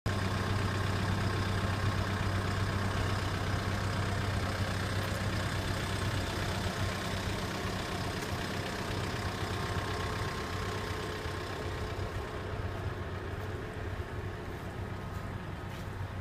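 Car engine idling with a steady low hum that grows fainter over the second half.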